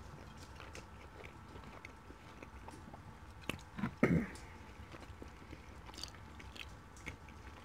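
A person chewing curry chicken and flatbread close to the microphone, with faint wet mouth clicks and smacks. There is one brief louder sound about four seconds in.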